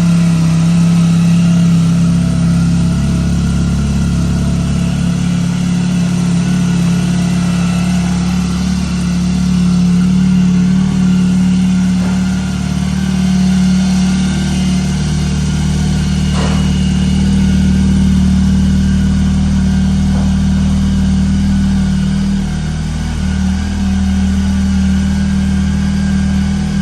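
Honda ST1100's V4 engine idling steadily on choke just after a cold start, breathing through a freshly fitted Delkevic full exhaust system with no exhaust blow.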